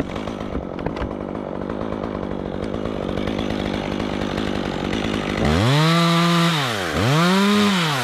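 Stihl chainsaw idling steadily, then revved up twice, each rev rising sharply in pitch, holding briefly and dropping back.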